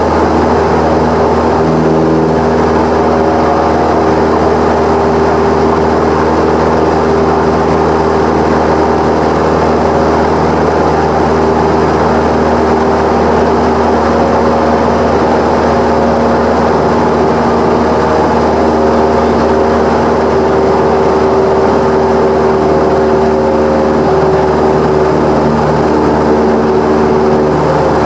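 Cessna 172's piston engine and propeller running steadily, a constant loud drone whose pitch shifts slightly now and then.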